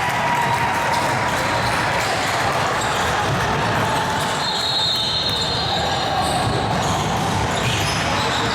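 Live youth basketball game in a gym: a ball being dribbled on the court amid a steady din of voices.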